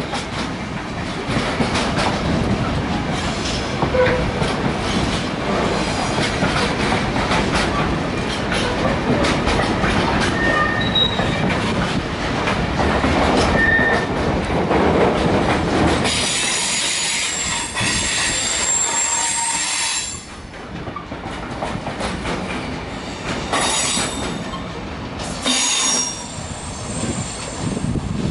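A train rolling past on the rails, wheels clattering over rail joints. About two-thirds of the way through come high-pitched wheel squeals, then the sound quietens, with two short squeals near the end.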